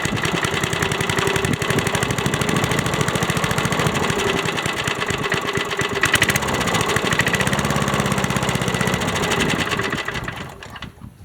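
1979 Ace Hardware push mower's small single-cylinder engine running steadily with a rapid firing beat, then shut off and spinning down near the end. It runs now that its ignition points have been cleaned.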